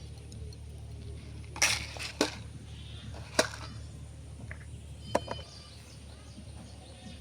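Four sharp cracks or knocks, short and spaced unevenly, over a low steady rumble; the third is the loudest.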